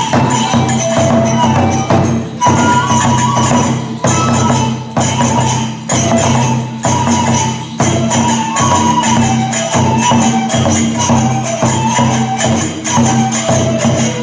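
Kagura festival music: a taiko drum and hand cymbals striking a steady beat under a bamboo flute playing a stepping melody.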